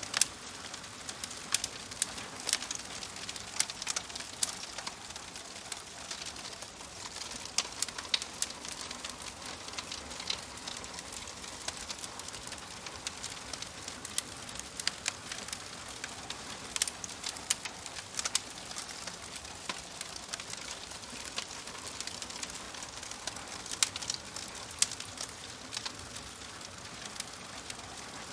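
Fireplace fire crackling: irregular sharp pops and snaps over a steady soft hiss.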